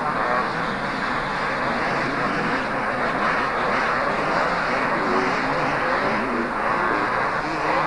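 Several two-stroke motocross bikes racing, their engines revving up and down and overlapping.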